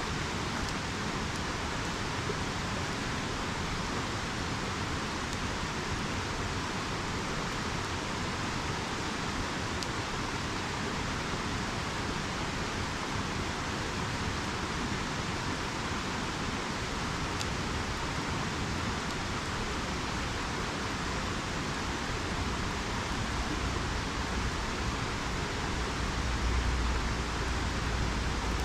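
A river rushing steadily, with a few faint ticks and a low rumble near the end.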